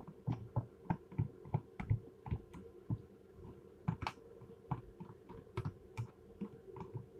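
Crunchy coleslaw being chewed close to the microphone: a steady run of crisp clicks and soft low thuds, about three a second, over a faint steady hum.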